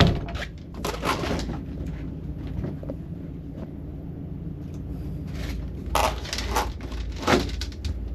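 Several sharp knocks, clicks and rattles, a cluster of them about six seconds in, over a low steady hum inside the RV.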